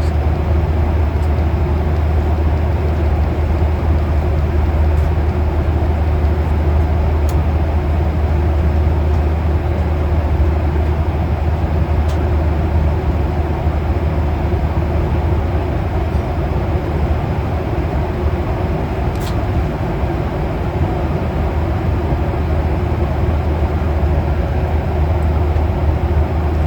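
Steady cabin noise of a Boeing 737-800 in cruise: the even rush of airflow over the fuselage with a deep, constant engine hum underneath, and a few faint ticks.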